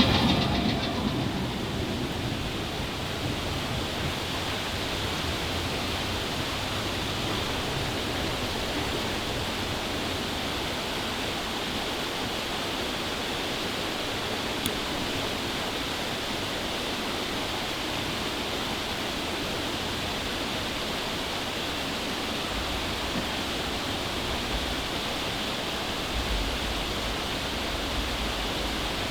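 Steady rush of falling water, even and unbroken, as the rumble of a passing mine train fades away in the first couple of seconds.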